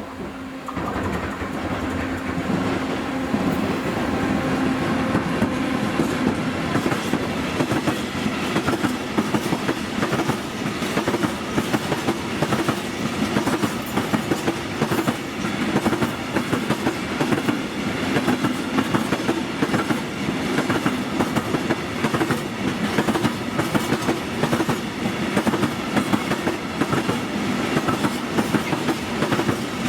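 A train rolling past, its wagons' wheels clattering rhythmically over the rail joints in a long steady clickety-clack. It swells in the first second and then holds level.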